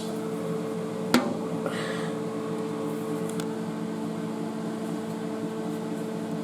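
A steady machine hum with a low, even tone running throughout, broken once about a second in by a single sharp knock and a short rustle.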